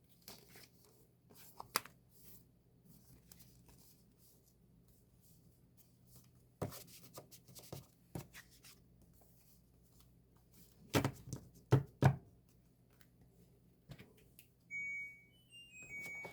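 Handling of an album package: scattered taps, clicks, knocks and rustling of paper and plastic, with a few louder knocks about seven seconds in and again around eleven to twelve seconds. Near the end a short sequence of electronic beeping notes steps up and down in pitch.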